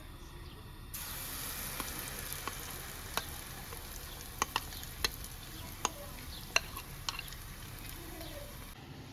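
Food sizzling in a frying pan, a steady hiss that starts about a second in and stops shortly before the end, with several sharp clicks in the middle.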